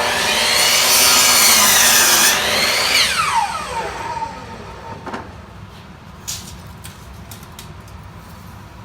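Electric saw cutting lumber: the motor runs, its pitch sags as the blade bites into the wood, then winds down in a falling whine after the trigger is released about three seconds in. A few light knocks follow.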